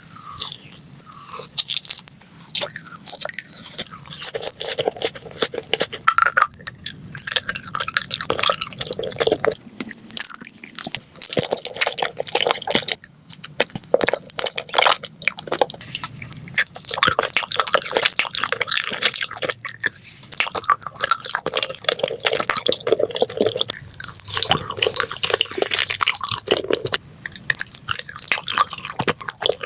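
Close-miked ASMR eating: a person biting and chewing crunchy food, with a dense run of crackling crunches and wet mouth sounds.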